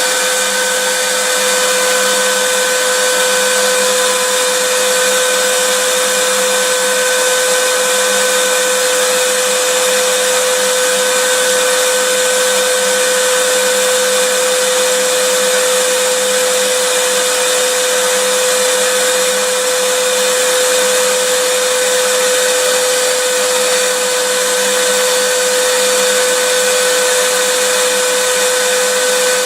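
Vacuum cleaner running continuously at a steady speed: an even rushing hiss of airflow with a constant motor whine, unchanging throughout.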